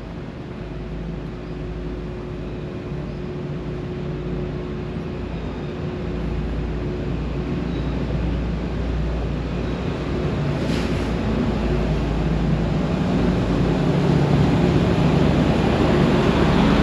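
A motor vehicle approaching, its low engine hum and rushing noise growing steadily louder.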